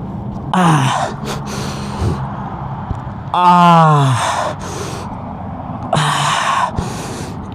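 A man gasping and breathing heavily, the sound of a rider winded and hurting after falling off his motorcycle. Several loud gasps come in a row, with a long falling groan about three and a half seconds in.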